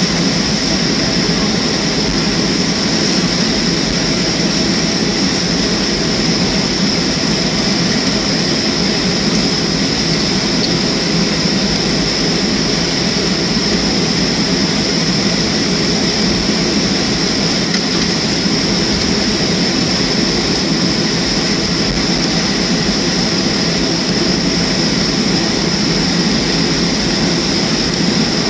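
Boeing 737-300 jet engine noise heard inside the cabin: a steady rumble with a constant high whine over it, unchanging throughout.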